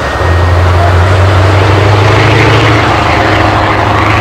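Scania 143's V8 diesel truck engine pulling away under heavy throttle with a deep, loud, steady exhaust note. It dips briefly at the very start, then comes straight back.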